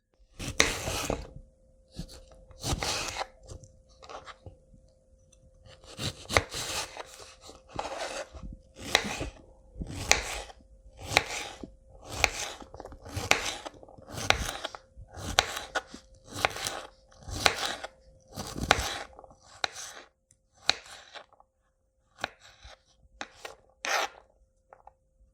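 A knife slicing through a vegetable on a cutting board in regular strokes, each a short scraping cut, about one a second with a few brief pauses.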